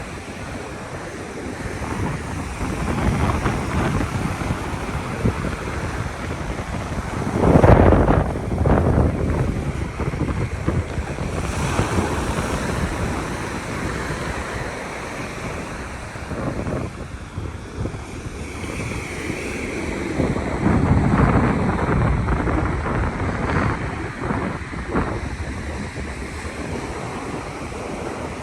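Ocean surf washing onto the beach, with wind buffeting the microphone in gusts, the strongest about eight seconds in and again around twenty-one seconds.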